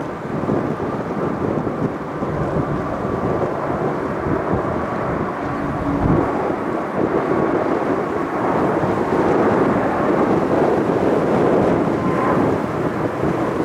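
Four-engine Airbus A380-800 departing at takeoff thrust: a loud, steady jet rumble.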